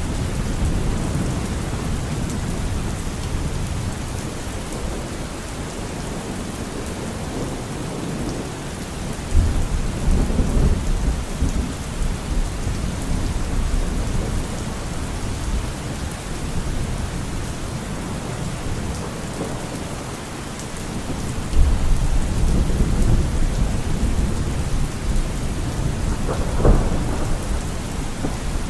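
Steady rain falling, with low rolls of thunder: one rumble starts about a third of the way in, another about two-thirds in, and a sharper crack of thunder comes near the end.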